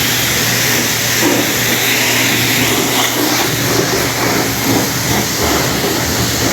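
High-pressure wand at a self-service car wash spraying soapy water onto a car, a loud, steady hiss of the water jet with a low hum underneath.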